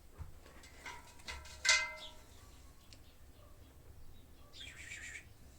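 Kittens mewing: a few short, high-pitched mews about a second or two in, then a brief rustle near the end.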